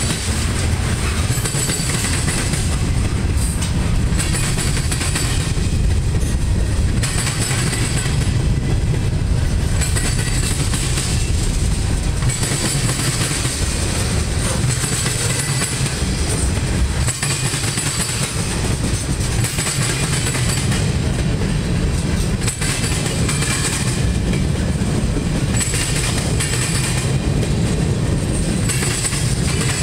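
Loaded freight cars rolling past at speed: a steady heavy rumble with steel wheels clattering over the rail diamond and joints, and a hiss that rises and falls every few seconds.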